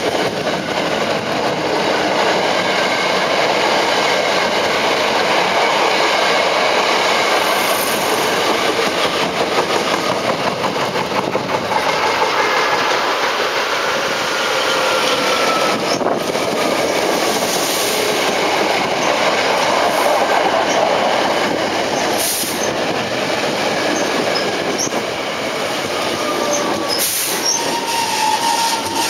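Electric commuter train running along the rails for the whole stretch, a dense steady rail noise with thin squealing tones from the wheels now and then, and a slightly falling squeal near the end.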